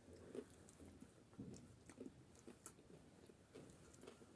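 Faint close-up chewing of a spicy street snack, with soft wet mouth sounds and small clicks and crunches.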